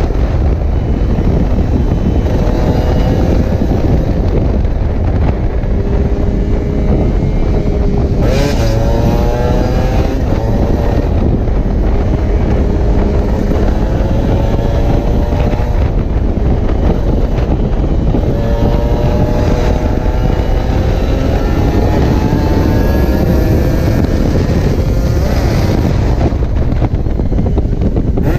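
Kawasaki Ninja 150's single-cylinder two-stroke engine ridden hard, its pitch climbing through each gear and dropping back at the shifts several times, under heavy wind rumble on the microphone.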